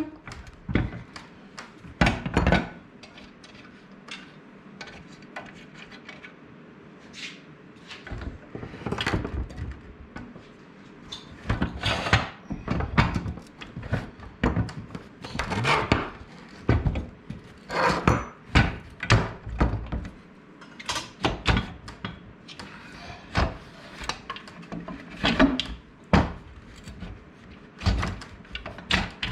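Irregular knocks and clunks of the steel rails of a mobile base being worked into the base's channels, with a rail that is reluctant to go in. The knocks are scattered, busier in the second half.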